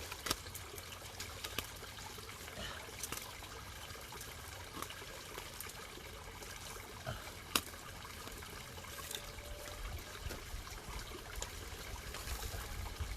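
Water trickling and bubbling steadily in a garden pond, with many small splashy ticks and one sharp click about seven and a half seconds in.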